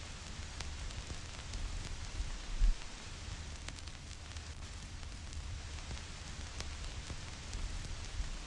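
Vinyl record crackle: a steady hiss with scattered clicks and pops of the stylus in the groove, over a low rumble. One louder low thump comes a little under three seconds in.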